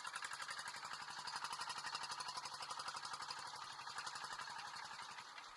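An engine running steadily with a fast, even beat, dropping off a little near the end.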